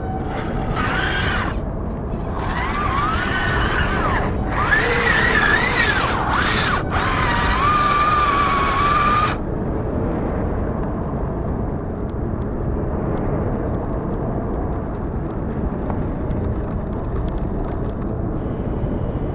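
Electric motor and gears of a 1/10 scale RC truck whining in bursts, the pitch rising and falling with the throttle. A steady low rumbling noise runs underneath and is left on its own after about nine seconds.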